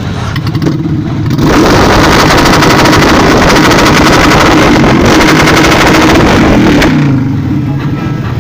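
Motorcycle engine revving loudly as it passes close by for about five seconds, then dropping back to a lower rumble of engines near the end.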